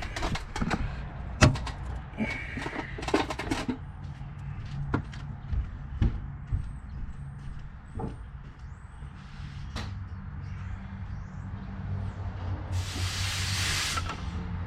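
Clicks and knocks of tools being handled, then near the end a blast of compressed air from an air blow gun lasting about a second, blowing debris off the engine. Birds chirp faintly in between.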